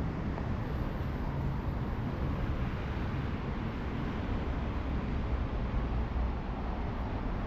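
Steady city-street ambience in the rain: a continuous hiss with a low rumble of traffic.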